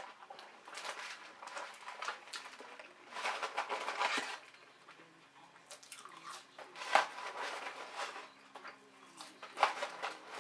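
Close-miked eating sounds: irregular wet chewing and crunching from a person eating fast food, with louder bursts about three seconds in, about seven seconds in and near the end.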